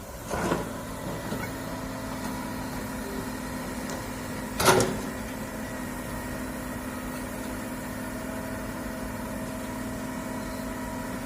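Hydraulic excavator's diesel engine running steadily, with two loud knocks, one just after the start and a louder one about four and a half seconds in.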